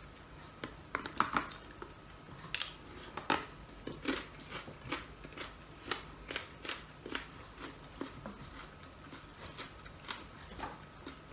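Mouth noises of a person eating crispy dried fish with rice: a run of sharp crunches and crackles, a few a second, as he chews.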